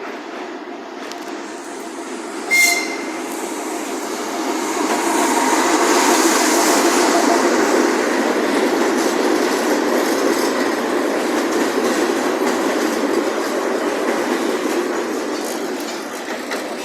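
TU7A narrow-gauge diesel locomotive and its coaches passing, the rumble and clatter of wheels on rail building to their loudest around the middle and then slowly fading. A short high-pitched toot sounds about two and a half seconds in.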